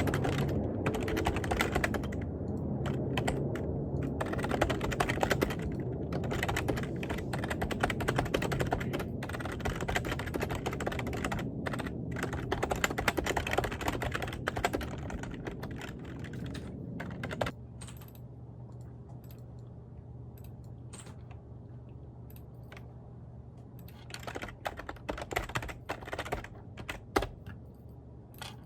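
Typing on a computer keyboard: rapid, continuous keystrokes that stop about two-thirds of the way through, leaving a steady low hum, with a few scattered keystrokes returning near the end.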